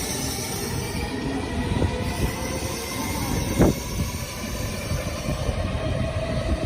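N700S Shinkansen train running, a steady rumble of wheels on rail, with a single sharp thud about three and a half seconds in. A faint whine rises slightly near the end.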